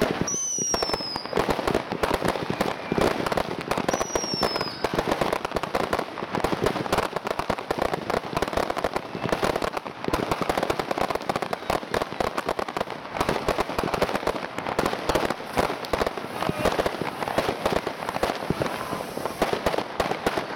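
Category 2 consumer fireworks going off, a dense, continuous crackle of pops and bursts. Two short falling whistles sound in the first few seconds.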